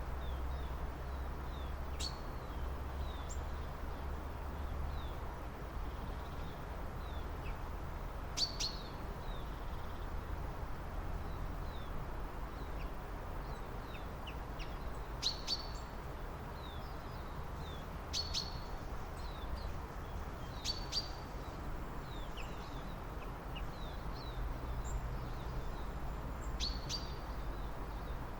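Small birds calling: a sharp, high chirp every few seconds, with many faint short chirps between them, over a steady low background rumble.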